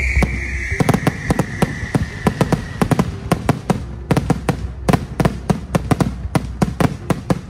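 Aerial fireworks going off in a rapid, irregular string of sharp bangs, about four or five a second. Over the first few seconds a high whistle drops in pitch and fades out.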